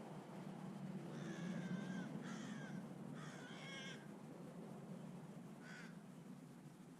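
A backyard bird giving three harsh, scratchy calls in quick succession, then a single shorter call a couple of seconds later.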